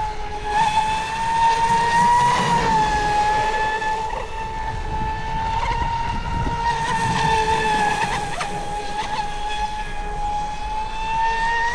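Radio-controlled boat's brushless electric motor running at speed on 6S, a steady high whine that rises and dips slightly in pitch, over a rushing hiss.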